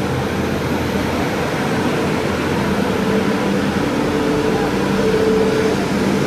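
Steady mechanical hum and rumble of the Sampoorna Kranti Express heard from inside a passenger coach, with a couple of steady droning tones over a broad noise.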